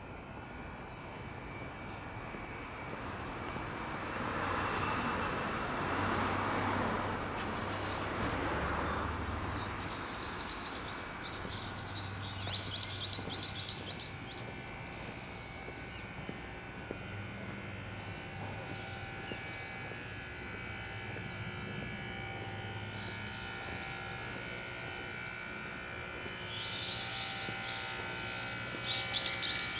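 Quiet morning street ambience: a distant engine swells and fades over the first several seconds. Birds then chirp in quick runs of high notes, once about a third of the way in and again near the end, over a faint steady hum.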